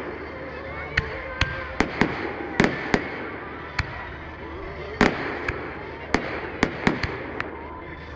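A string of sharp, irregular bangs, about two a second, over a steady background murmur of voices.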